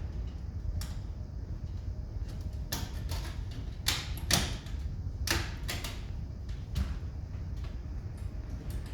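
Scattered clicks and knocks of plastic parts being handled and fitted back together while a four-way ceiling-cassette air conditioner is reassembled, the loudest about four seconds in, over a steady low rumble.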